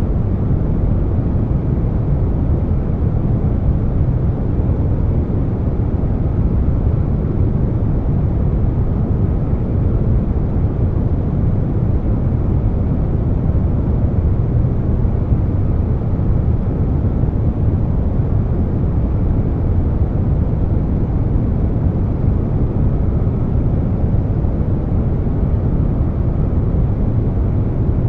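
Air conditioner noise mixed with brown noise: a steady, deep rushing hum that stays even throughout, without tones or clicks.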